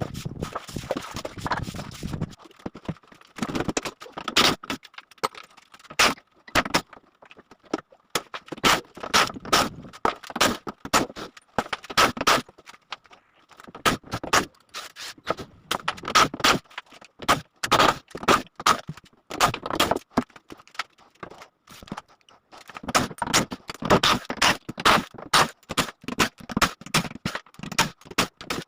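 Irregular clicks, knocks and scrapes of hand work with tools and workpiece parts, coming in quick runs broken by short pauses.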